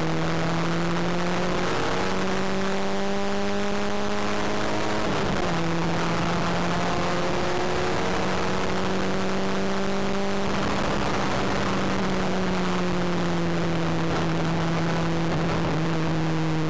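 A 1993 Ford Fiesta Mk3 XR2i's 1.8-litre 16-valve four-cylinder engine, heard from inside the cabin at speed on track. The engine note steps up about two seconds in, drops sharply at a gear change about five seconds in, then climbs slowly and eases off over the last several seconds.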